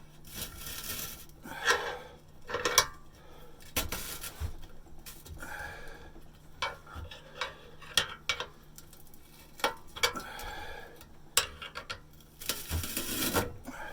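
Steel pry bar and pliers clanking and scraping on a rusted exhaust pipe as it is twisted inside the muffler's inlet pipe, with irregular sharp metal knocks, the loudest about two and three seconds in.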